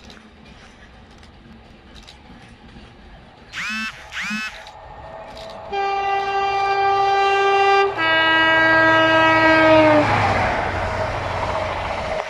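Passing train sounding its two-tone horn, a higher note then a lower one held for about two seconds, its pitch sagging slightly as it goes by; the roar of the train passing through the station follows. Two short high chirps come just before the horn.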